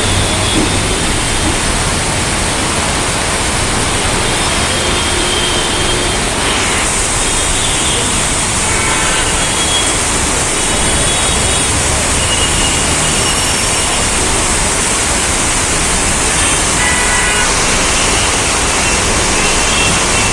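Heavy rain and floodwater making a steady, loud rush of water noise, with faint short high tones here and there.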